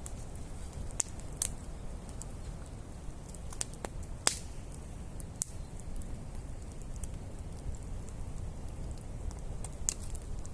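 Wood campfire crackling, with scattered sharp pops, the loudest about four seconds in, over a steady low rumble.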